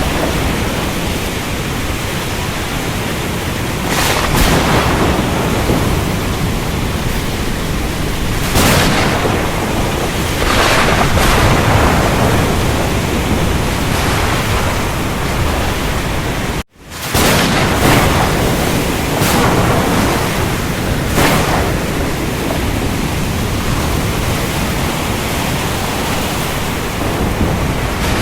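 Ocean thunderstorm: steady heavy noise of rain and surf under a low rumble of thunder, with waves surging up every few seconds. The sound cuts out abruptly for a split second about two-thirds through, then comes straight back.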